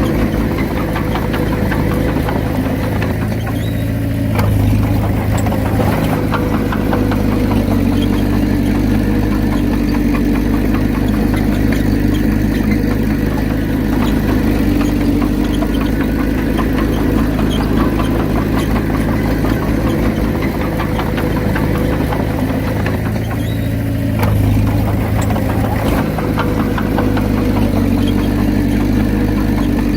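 Komatsu D31P bulldozer's diesel engine running steadily, swelling briefly twice, about four seconds in and again near the end.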